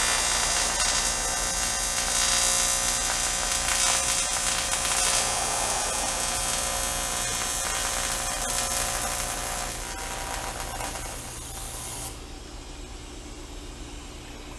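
AC TIG welding arc running steadily while filling a crack in an aluminum car rim with 4043 aluminum filler rod. The arc stops suddenly about twelve seconds in, leaving a low steady hum.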